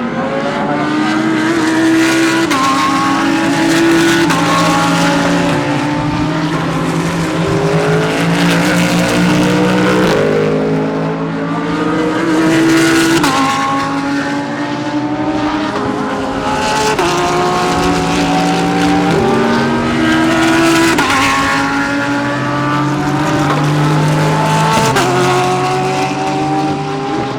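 Several GT3 race cars accelerating hard past one after another, each engine note rising through the gears with repeated upshifts, the cars' notes overlapping.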